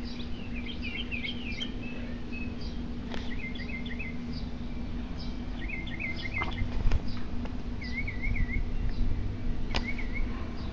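Small birds chirping outdoors in short warbled phrases repeated every couple of seconds, over a steady low hum and rumble, with a couple of sharp clicks in the second half.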